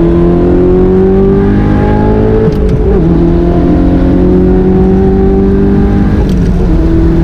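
Audi R8's V8 with an Armytrix titanium exhaust at full throttle, pulling up through the gears. The revs climb steadily, drop at a gear change about two and a half seconds in, climb again and drop at a second shift near the end.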